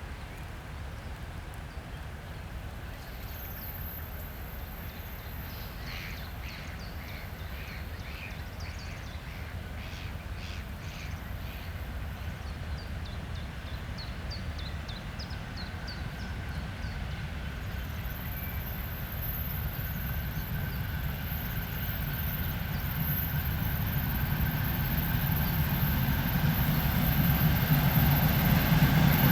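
M62 diesel locomotive's two-stroke V12 engine approaching with a freight train: a low rumble growing steadily louder, with a steady tone joining about halfway through. Birds call repeatedly in the first half.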